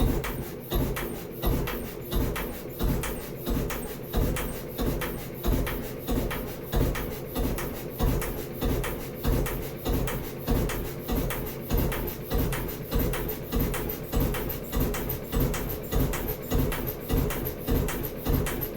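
Gardner 1L2 single-cylinder diesel engine running steadily, its firing beat rising and falling in loudness in an even rhythm a little over once a second.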